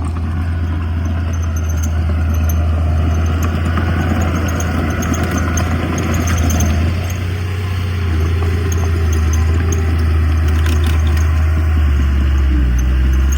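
Diesel engine of heavy earthmoving equipment running with a steady low drone, its pitch shifting slightly a couple of times.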